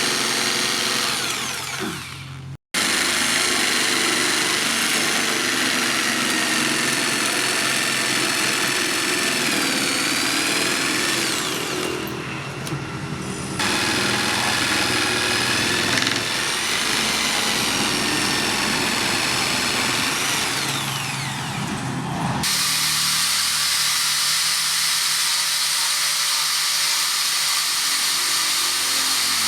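An electric power tool's motor whining steadily, its pitch dipping and rising as it is loaded, in several clips that cut off abruptly.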